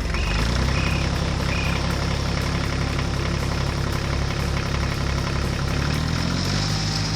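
Heavy diesel construction-machine engine running steadily at idle, as a cartoon sound effect; its pitch shifts about six seconds in. Three short high tones sound over it in the first two seconds.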